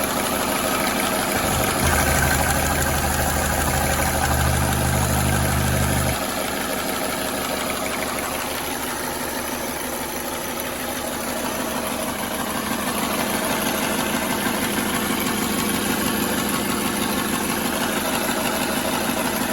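Mercedes-Benz M271 turbo four-cylinder engine idling warm with a loud, rapid clatter, very noisy and like a diesel. The owner can't place where it comes from and suspects the oil pump isn't delivering oil; the timing chain and sprockets have already been replaced. A heavy low rumble joins in from about two seconds in and stops about six seconds in.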